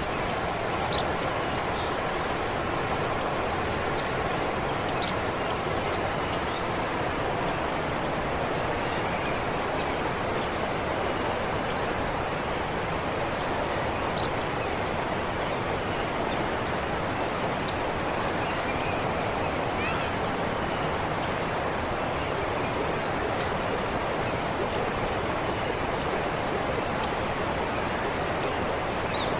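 A forest stream flowing steadily, with small birds chirping in short, high, falling notes that come in clusters throughout.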